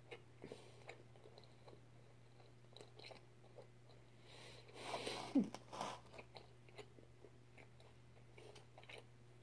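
Faint close-up chewing: soft wet mouth clicks of someone eating with the mouth near the microphone. About five seconds in comes a louder breath with a short falling vocal 'mm'.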